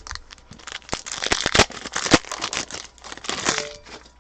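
A foil trading-card pack wrapper being torn open and crinkled, a dense run of crackling rustles.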